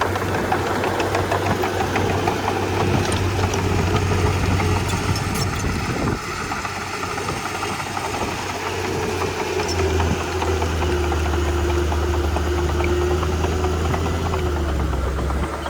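Komatsu D31P bulldozer's diesel engine running steadily. It dips briefly about six seconds in, and from about ten seconds in it takes on a heavier, deeper note.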